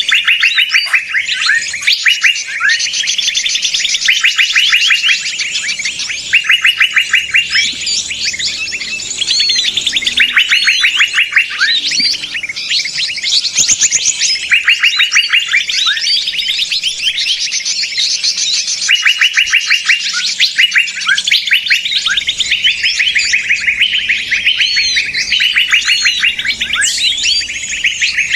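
Bird-lure recording of a noisy mixed chorus of small birds: many rapid, chattering trills overlap, each a quick run of repeated high notes lasting about a second, coming one after another throughout.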